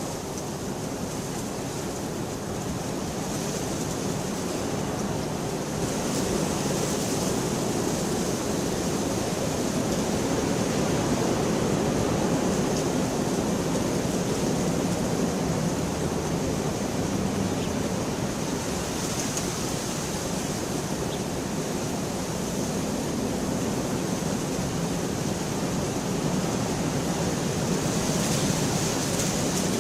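Steady heavy rainfall, a dense even hiss that grows slightly louder a few seconds in and then holds.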